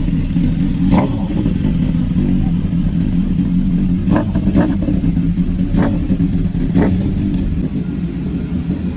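Loud car engine held at steady high revs, with a few sharp cracks over it.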